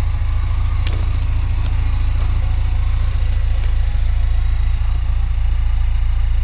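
Old Toyota flatbed truck's engine running, a steady low rumble, with a few sharp clicks or rattles about a second in.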